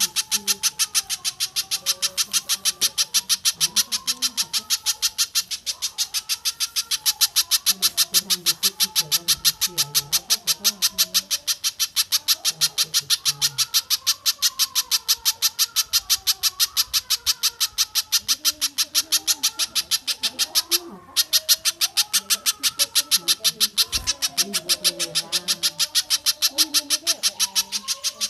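Recorded bird calls: a fast, even series of sharp high chips, about six a second, with a brief break about 21 seconds in, over fainter wavering lower notes.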